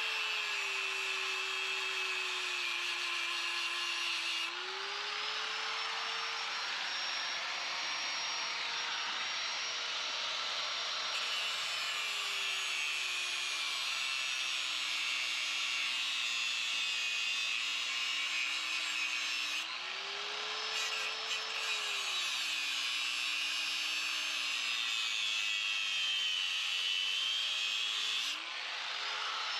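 A small motor running continuously, its pitch sagging and recovering every few seconds as if under varying load, with a strong hiss over it.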